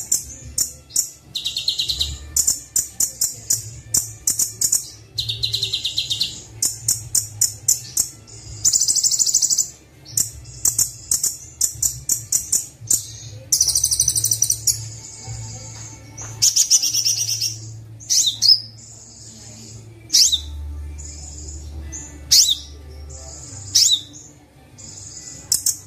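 Sunbird song on a kolibri wulung training (masteran) recording with fill-in phrases: rapid, high, buzzy trills and quick runs of chirps, with sharp single whistled notes in the second half. A steady low hum runs underneath.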